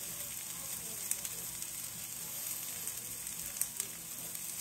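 Steady sizzle of peppers and onions frying in a pan, with a few light clicks about a second in and near the end.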